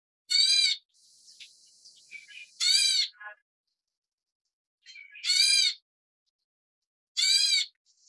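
Black bulbul fledglings giving harsh, rasping begging calls: four loud calls about two seconds apart, with faint short chirps between them.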